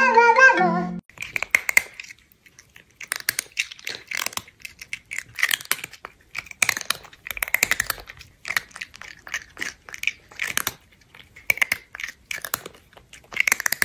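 Crunchy chewing and munching in irregular bursts with short pauses, an eating sound effect. A brief tune ends about a second in.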